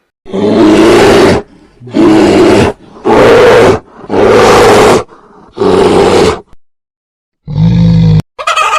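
A big cat roaring: five loud, rough roars of about a second each at a steady pace, then a shorter, deeper one near the end.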